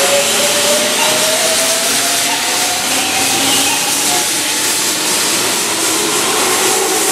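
Keihan seven-car electric train pulling out along the platform, its motor whine rising steadily in pitch as it speeds up, over a steady rush of wheels on rail.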